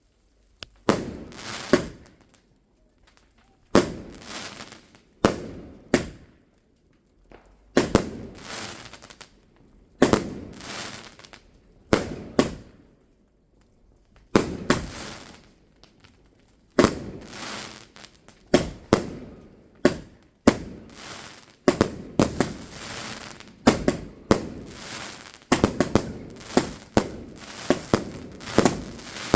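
Fireworks going off in an irregular series of sharp bangs, each trailing off over about a second, the bangs coming faster and overlapping toward the end.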